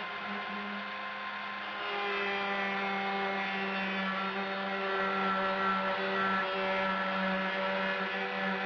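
Handheld rotary power tool cutting into a toaster oven's sheet-steel panel: a steady motor whine that gets louder and fuller from about two seconds in as the cut bites.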